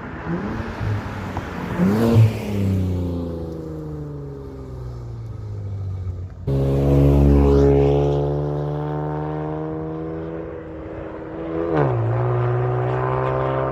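Infiniti Q50/Q60 3.0-litre twin-turbo V6 through a 3-inch AAM Competition catback exhaust, heard from outside as the car drives by. The exhaust note falls in pitch as it passes. A louder second pass cuts in abruptly about halfway through, and near the end the pitch drops sharply and then holds steady.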